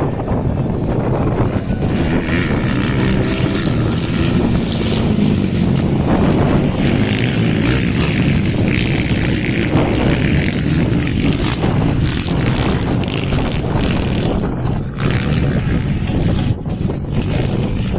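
Honda CG-based four-stroke motocross bikes racing, their engines running hard. Wind buffets the microphone throughout.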